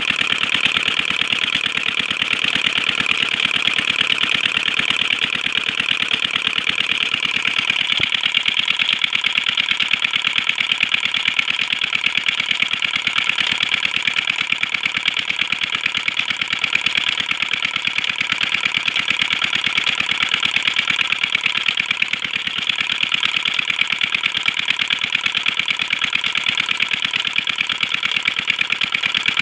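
Stationary Petter diesel engine of a tube well running steadily, its firing beat an even, rapid knocking that holds unchanged throughout.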